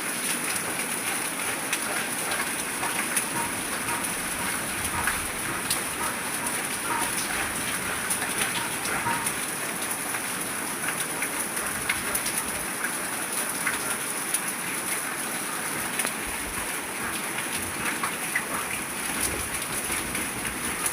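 Steady rain falling, with many separate drops tapping sharply on surfaces throughout.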